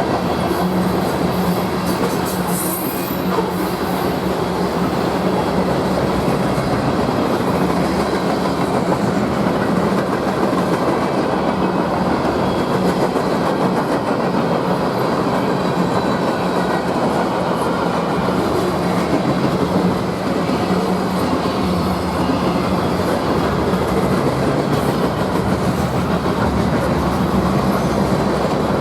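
A train rolling past on the rail line: a loud, steady rumble and clatter of railcar wheels on the rails, with a low hum underneath.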